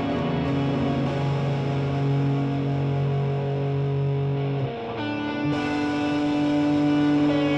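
Instrumental rock passage without vocals: distorted electric guitar playing long held chords, moving to a new chord about five seconds in.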